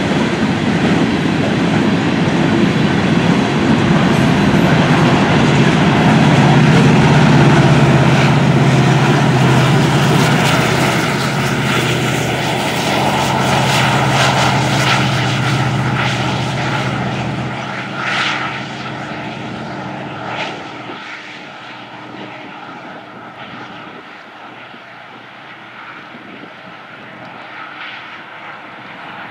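Union Pacific freight train passing: the diesel locomotive engines drone steadily under the rumble of rolling freight cars, with wheels clicking over the rails. After about 17 seconds the engine drone fades away, leaving a fainter rumble of the train moving off.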